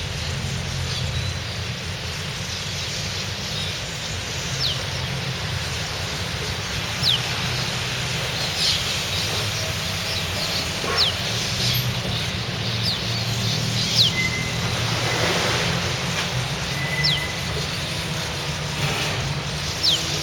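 Birds perched on a wire giving short, sharp downward-sliding chirps every second or two, over a steady low rumble.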